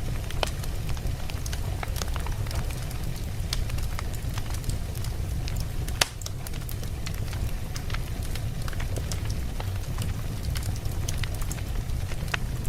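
Campfire burning: wood crackling with many scattered sharp pops over a steady low rumble of the flames, one louder pop about six seconds in.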